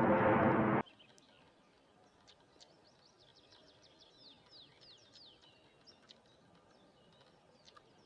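A loud rushing noise that cuts off suddenly under a second in, then quiet with a small songbird singing a quick run of descending high notes, followed by a few scattered chirps.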